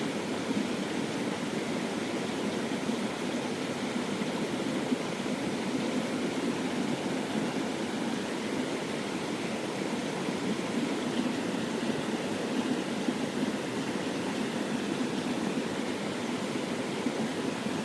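Mountain stream rushing steadily over rocks, an even wash of water noise.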